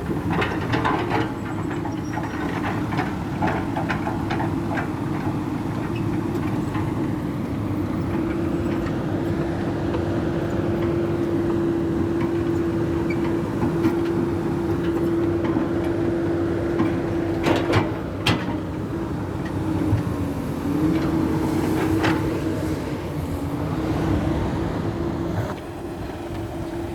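Diesel dump truck engine running steadily, with a steady whine over it and a few sharp knocks and rattles about two-thirds of the way through.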